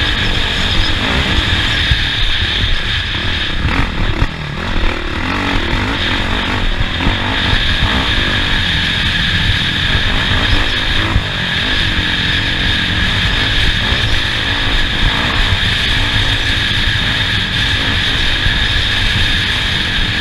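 Off-road race vehicle's engine running continuously, its pitch rising and falling with the throttle, heard onboard over constant low rumble and rattle.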